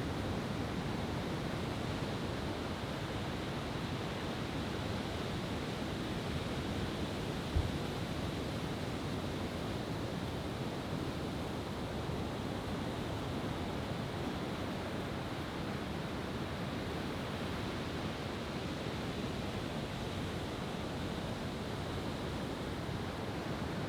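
Steady wash of ocean surf, with one brief low thump about seven and a half seconds in.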